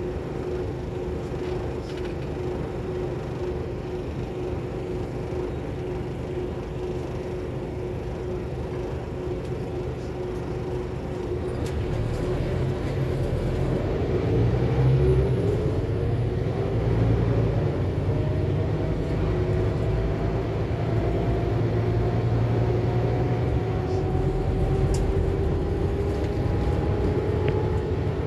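Inside a 2021 Scania K280UB4 city bus, the diesel engine and driveline drone steadily with a held whine. About twelve seconds in, the drone grows louder and a whine climbs slowly in pitch as the bus pulls away and gathers speed.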